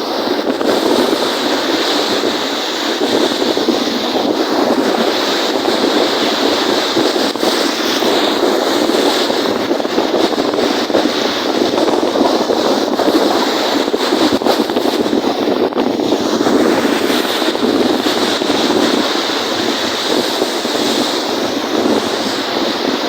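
Wind blowing hard over the microphone and waves washing in on the lake, a steady loud rushing with no breaks.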